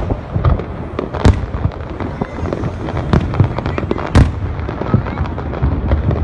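Aerial fireworks display: shells bursting in a dense, irregular run of crackles and pops, with louder bangs about a second in and again just past four seconds.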